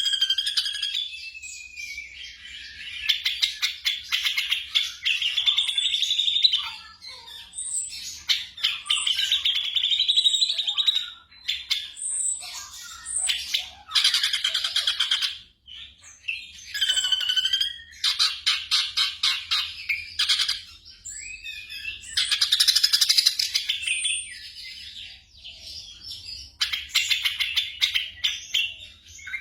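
Black drongo singing, a varied stream of whistled glides and fast, harsh chattering phrases, in runs of a second or two with short pauses between.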